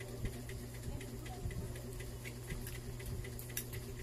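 Close-up chewing and wet lip-smacking: irregular sharp mouth clicks as a mouthful of hard-boiled egg is chewed, over a low steady hum.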